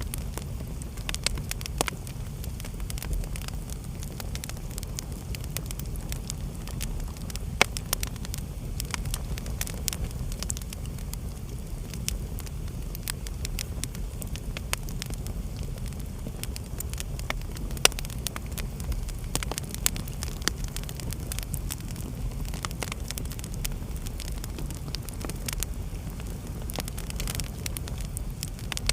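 Wood fire burning in a fireplace: a steady low rumble of the flames with constant crackling and scattered sharp pops, a few louder than the rest.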